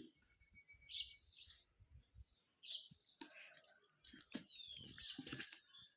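Small birds chirping faintly in scattered short high calls, with a thin held note early on and a falling whistle about four seconds in.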